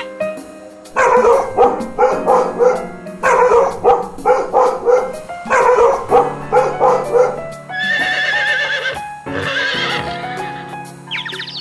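A horse whinnying over background music: three long, shaking whinnies, then two higher, quavering calls near the end.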